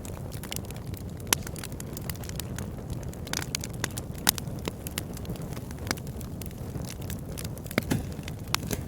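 Wood fire burning in a fireplace, a steady low rumble with irregular crackles and a few sharper pops.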